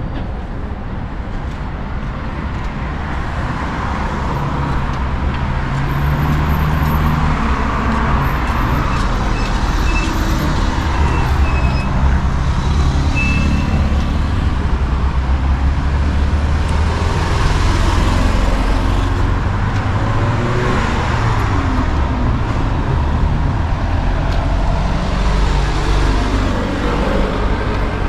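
Road traffic: the low, steady running of vehicle engines with tyre and road noise, swelling over the first few seconds as traffic comes close and then holding.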